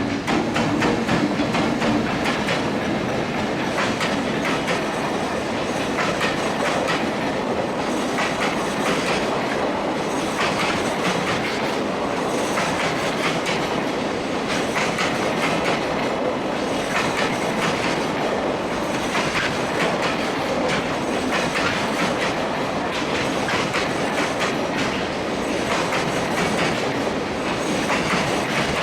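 Long JR Freight train's wagons rolling past at speed, wheels clacking over the rail joints in a continuous clatter.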